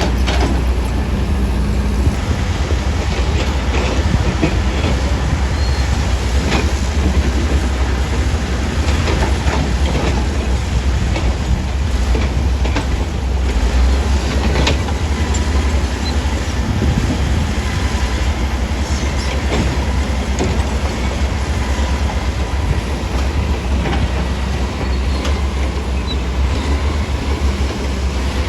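Heavy tracked earthmoving machine at work: a loud, steady, deep diesel rumble with the steel tracks clanking and rattling irregularly over it.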